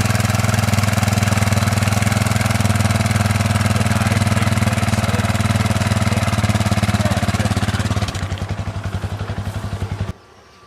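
Enduro motorcycle engine running steadily and loud close by. About eight seconds in it drops to a lower, pulsing beat, then cuts off suddenly near the end.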